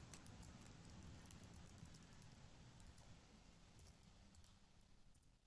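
Near silence: faint room tone with a few soft clicks of computer keyboard typing.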